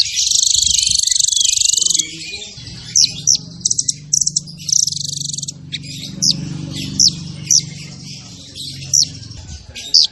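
Songbird singing a fast, dense masteran song. It opens with a rapid buzzing trill of about two seconds, then runs into quick, sharp downward-swept whistled notes, with a low hum underneath through the middle.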